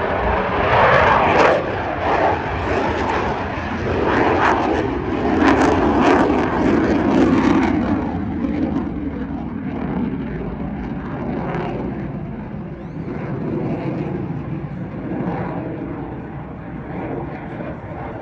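Fixed-wing aircraft engine noise as a display airplane flies past, its pitch sinking slightly and the sound easing off in the second half.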